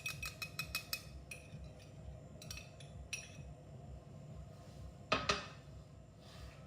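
A utensil clinking against a mixing bowl: a quick run of light clicks in the first second, a few scattered clinks after, and a louder knock about five seconds in.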